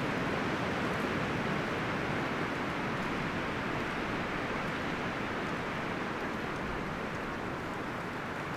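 Wind rustling through the leaves and branches of forest trees: a steady rush that swells at the start and eases off slowly.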